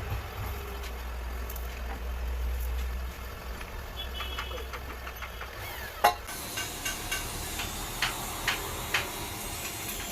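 Honda CD70's small single-cylinder four-stroke engine running with a low, steady rumble that dies away about three seconds in. About six seconds in there is a sharp knock, then a series of light metallic clicks and taps.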